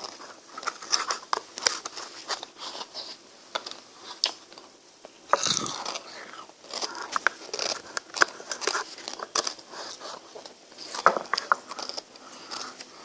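Close-miked eating of frozen ice cream: irregular sharp bites and chewing, with wet mouth sounds and a longer, louder mouth sound about five and a half seconds in.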